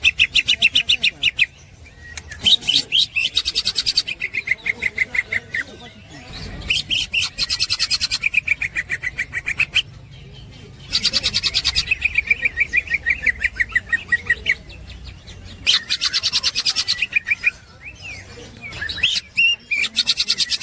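Green leafbird (cucak ijo) singing in its 'ngekek' style: runs of very fast, repeated chattering notes. There are about six phrases of one to three seconds each, with short pauses between them.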